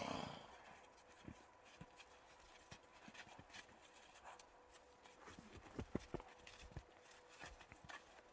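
Faint, irregular thuds of horses' hooves on the ground, the strongest bunched together a little past the middle, with a short louder sound right at the start.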